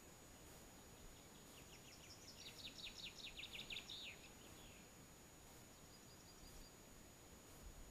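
Faint songbird singing: a quick run of repeated notes lasting about three seconds that ends in a downward flourish, then a few softer notes near the end, over near silence.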